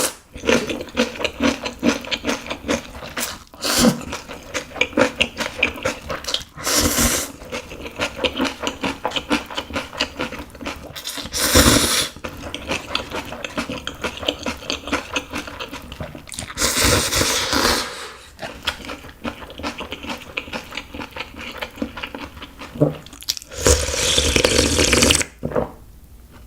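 Close-miked eating of Yukgaejang cup instant noodles in spicy broth: continuous wet chewing and smacking, with about six long slurps of noodles and broth, the longest near the end.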